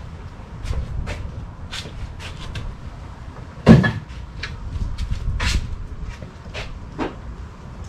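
Clicks and knocks of a metal can and plastic funnel being handled while engine oil treatment is emptied into the oil filler, with one loud knock a little under four seconds in.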